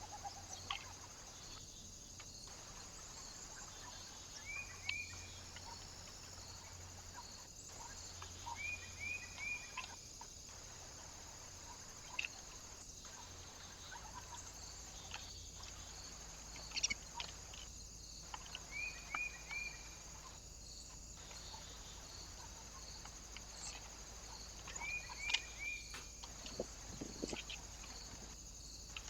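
Small birds chirping: short, high notes in quick groups of two or three, repeating every few seconds, with a few sharp clicks, over a steady high hiss.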